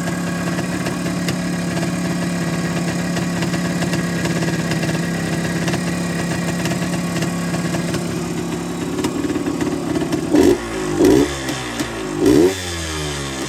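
1974 Yamaha DT360A's single-cylinder two-stroke engine idling steadily, then blipped three times in quick succession near the end, the pitch rising and falling each time.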